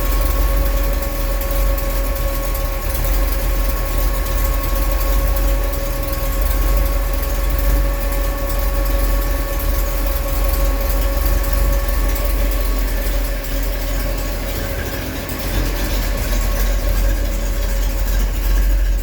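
1967 Shelby GT500's 428 V8 idling steadily while its cooling system is burped of trapped air, with the cooling fan running and a steady whine over the engine.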